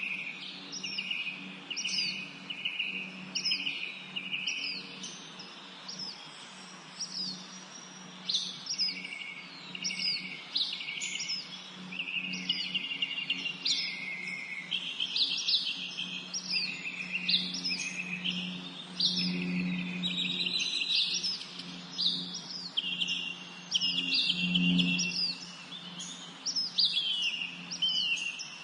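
Several songbirds singing and chirping together: a short downward-sweeping note repeated about twice a second over continuous twittering, with a faint low steady hum beneath.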